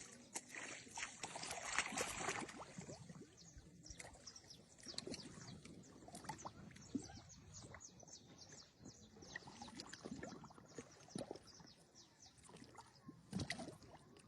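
Knife scraping and cutting through a fish while filleting it by hand: irregular small scrapes and clicks, with a louder cluster near the end.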